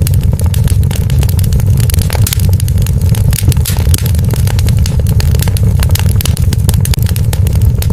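Wood fire burning in a fireplace: dense, irregular crackles and pops over a steady low rumble.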